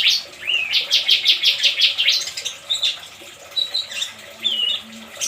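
Oriental magpie-robin calling: a rapid run of about eight sharp, high notes starting about half a second in, then scattered short whistled notes, some sliding in pitch.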